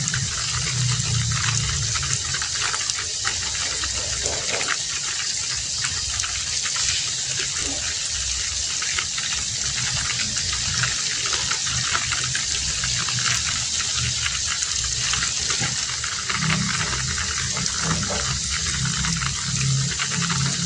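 Heavy rain falling steadily, a dense even hiss, with a lower, uneven pouring rumble that is stronger at the start and again near the end.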